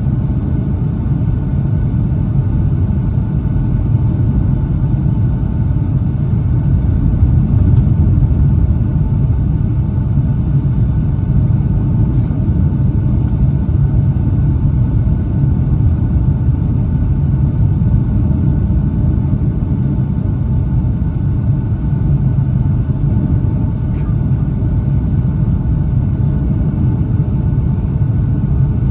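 Steady low rumble of engine and airflow noise inside the cabin of a Boeing 757-200, with faint steady tones above it.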